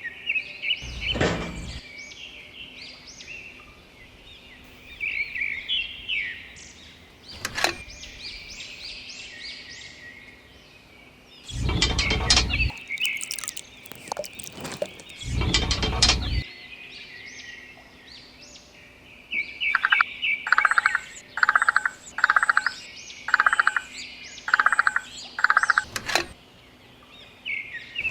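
Birds chirping and calling throughout, with a run of about ten quick repeated calls near the end. A few brief low rumbles break in, once near the start and twice around the middle.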